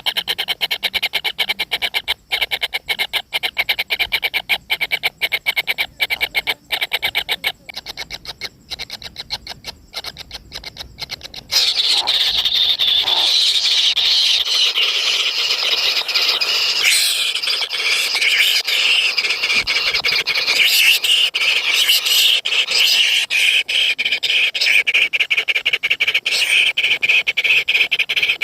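Kingfisher chicks calling: rapid, chopped shrill calls at first, then about a third of the way in a sudden dense, continuous chorus of shrill calls.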